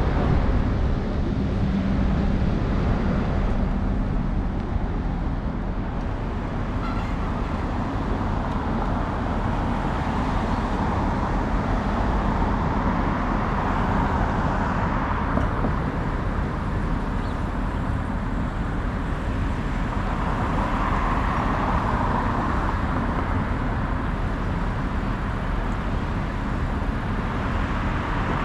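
Steady rush of wind and road noise on a camera riding on a moving bicycle, with city car traffic going by; the traffic swells twice, around the middle and again about two-thirds through.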